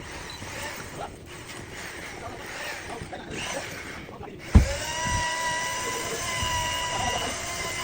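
A hissing noise, then about four and a half seconds in a sharp thump and a power tool running with a steady high whine.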